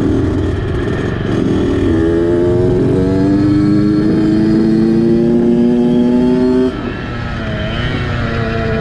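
Dirt bike engine under hard acceleration on the road, its pitch climbing slowly and held high at full throttle. It drops abruptly about two-thirds of the way through, at a shift or a lift of the throttle, then starts climbing again.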